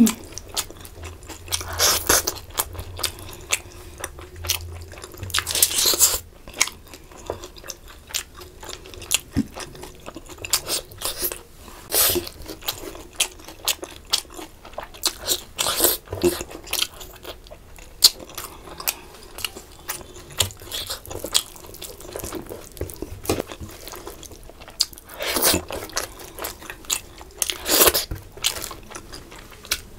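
Close-miked chewing, biting and crunching of fish curry and rice eaten by hand, with many small wet clicks and smacks and several louder crunches.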